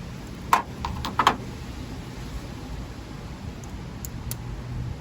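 Sharp clicks and knocks of hand tools on engine parts while components are taken off an engine bay: a quick cluster of four or so about half a second to a second and a half in, then two faint ticks later, over a steady low hum.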